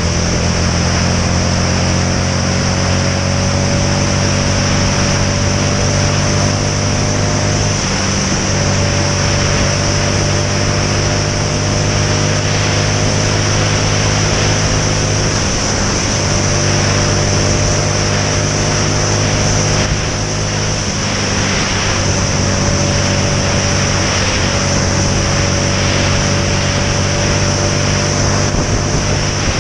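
Motorcycle engine running at road speed under steady wind noise. Its pitch creeps up and briefly dips three times, about 8, 16 and 21 seconds in.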